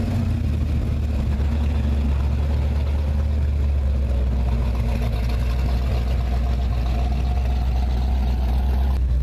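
A 1969 Dodge Charger's engine running with a steady low rumble as the car pulls away slowly.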